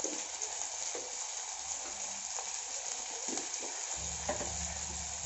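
Chopped onions and tomatoes sizzling in sesame oil in a stainless steel pot, an even hiss, with a few faint knocks of a wooden spatula stirring. A low hum comes in about four seconds in.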